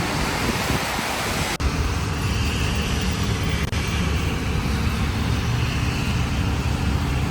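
Road vehicle on the move: a steady low rumble with an even hiss over it, broken by two abrupt cuts between clips.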